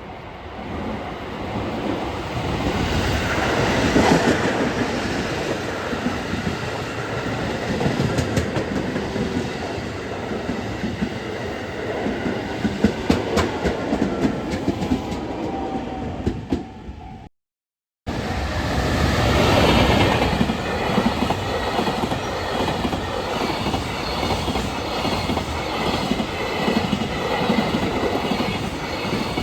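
Trains running by at close range, their wheels clattering rhythmically over the rails; the noise swells over the first few seconds, breaks off abruptly about two-thirds of the way through, and a second passing train starts loud straight after.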